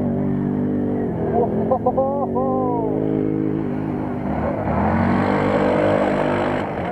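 Racing quad-bike engines running and revving, several at once, with one engine rising and falling in pitch about two seconds in.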